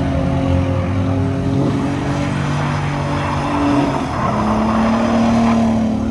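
Car engine held at high, steady revs, its pitch stepping down a little about four seconds in.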